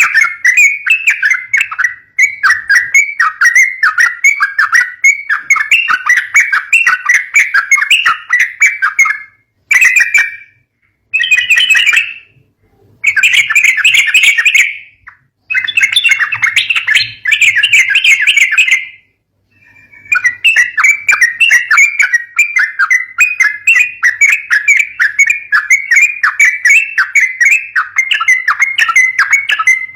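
Yellow-vented bulbul (trucukan) calling in loud, rapid chattering series. The calls are broken by short silences about a third of the way in and again past the middle.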